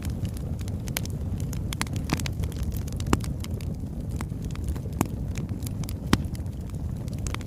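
Burning wood logs crackling: a steady low rumble of the fire under scattered sharp crackles and pops, with three louder pops about three, five and six seconds in.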